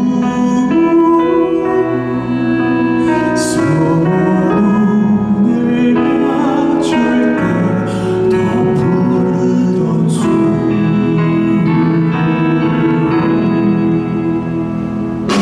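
Live vocal performance: several voices singing a slow song in harmony over instrumental accompaniment, with long held notes and sung consonants, recorded from the audience.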